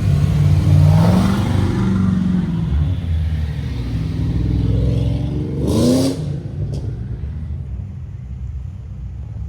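Several modified cars' engines running at low revs in slow cruise traffic. One revs up about a second in, and a sharper rev climbs quickly near six seconds before the traffic noise eases.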